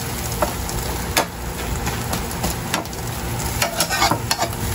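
Beaten eggs sizzling in a frying pan while a slotted metal spatula stirs and scrapes them, its edge clicking and scraping against the pan many times over a steady hiss.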